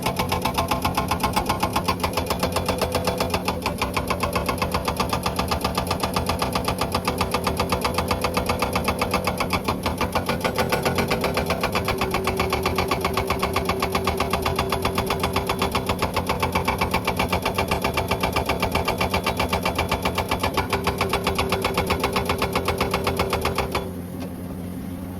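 Hydraulic breaker on a Komatsu excavator hammering mountain rock in a rapid, even rhythm of blows, with the excavator's diesel engine running steadily underneath. Near the end the hammering stops and the engine carries on alone.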